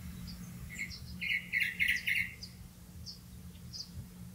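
Birds chirping: a quick run of five or six short chirps about a second in, then scattered single higher chirps, over a faint steady low hum.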